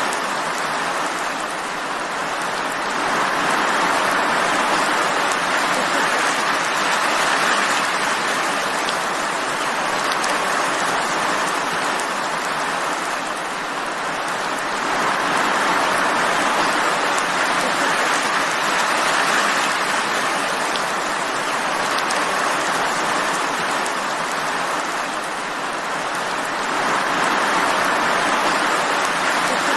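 Steady rain falling as a dense, even hiss that slowly swells and eases about every twelve seconds.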